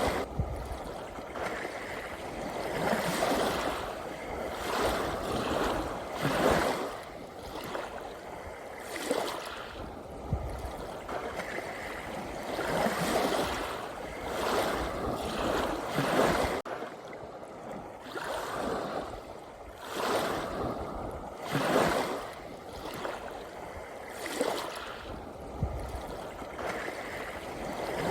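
Gentle ocean waves washing in and out, each swell of surf rising and falling every couple of seconds.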